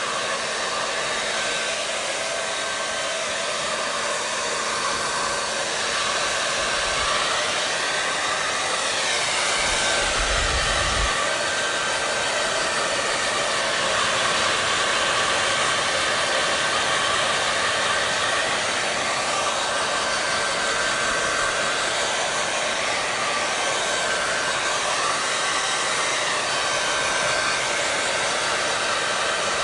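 Electric hair dryer running steadily: an even rushing airflow with a faint constant fan whine. There is a brief low bump about ten seconds in.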